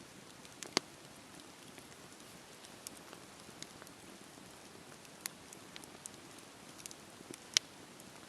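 Wood bonfire burning: a soft steady hiss with irregular sharp crackles and pops, the loudest about a second in and again near the end.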